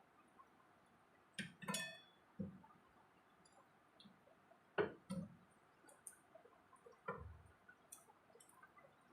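Quiet eating sounds: a handful of short, soft clicks and taps, spaced a second or more apart, from a person eating a meal.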